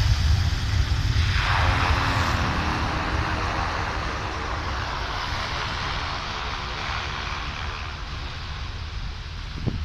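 Propeller aeroplane's engines running loud as it passes close, the pitch dropping as it goes by, then fading steadily as it moves away.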